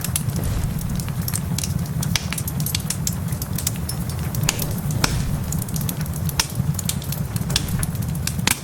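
Wood fire crackling in a fireplace, with many sharp pops at irregular moments, over heavy rain and a steady low rumble.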